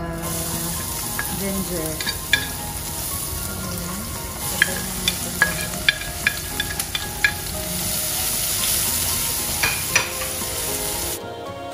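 Minced garlic and ginger sizzling in hot oil in a frying pan, with a wooden spatula tapping sharply against the plate and pan a dozen or so times, most of them in the middle. The sizzling cuts off suddenly near the end.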